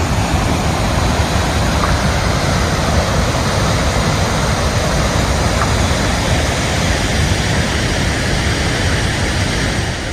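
Godafoss waterfall's falling water: a loud, steady rushing, even and unbroken, easing a little near the end.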